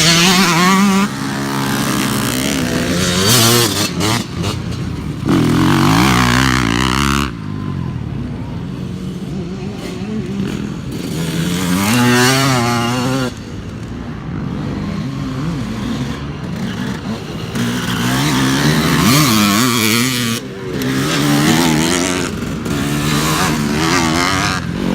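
Motocross dirt bikes racing past, engines revving hard and dropping off as riders shift. Engine noise swells several times as bikes go by.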